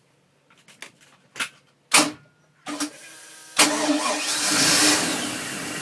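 Mercruiser 7.4 MPI V8 marine engine being started: a few short clicks and bursts, then it catches about three and a half seconds in, runs louder for a second or so and settles to a steady idle.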